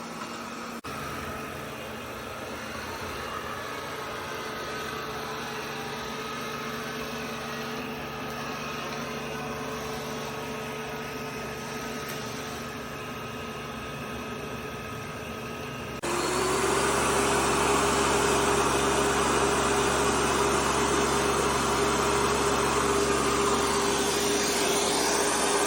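Robot vacuum cleaner running with a steady motor hum. About two-thirds of the way in, a louder motor starts suddenly, its pitch rising briefly before it settles into a steady, louder whir.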